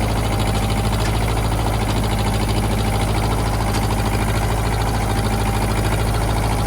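Ford 1700 compact tractor's three-cylinder diesel engine running loud and steady under load as it strains to drag a chained log, its tires unable to get enough traction on frozen ground.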